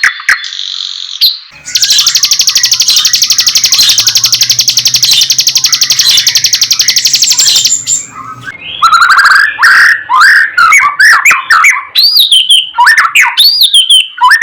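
White-rumped shama (murai batu) singing: a very fast, even trill of repeated notes held for about six seconds, then a run of loud slurred whistles that rise and fall in pitch.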